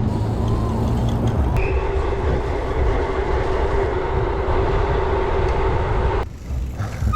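Wind on the microphone and rolling rumble while riding a bicycle. A steady hum runs for several seconds and cuts off suddenly about six seconds in.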